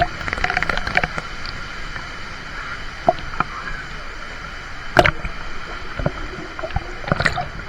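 Water rushing and splashing around a water-park raft, with a few sharp knocks or splashes, the loudest about five seconds in.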